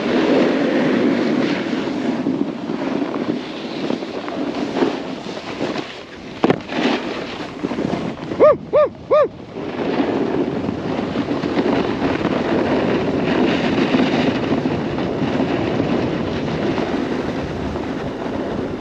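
Snowboard sliding over snow with wind rushing across the helmet-mounted microphone, a steady rush that eases off near the middle. A couple of sharp knocks and then three short whistle-like tones in quick succession come during the lull.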